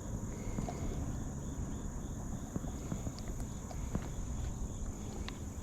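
Steady high-pitched drone of insects over a low rumble of wind and water, with a few light knocks scattered through.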